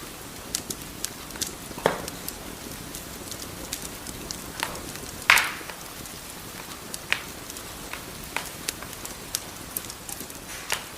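Wood fire crackling in a fireplace: a low steady hiss with irregular sharp pops and snaps. The loudest pop comes about five seconds in.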